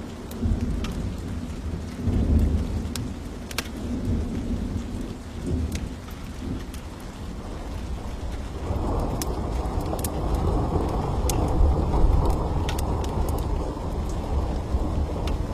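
Thunderstorm: steady rain with a low rolling thunder rumble that swells a little past halfway and stays heavier. Scattered sharp crackles of a wood fire sound over it.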